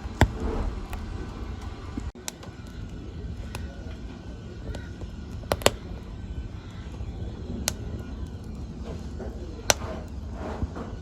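Wood fire crackling, with scattered small snaps and three loud pops (near the start, in the middle and near the end) over a low steady rumble of burning.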